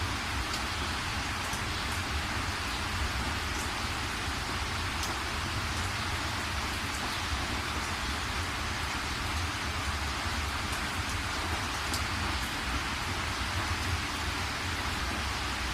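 Steady rain falling, with a low rumble beneath it and occasional sharp drop ticks now and then.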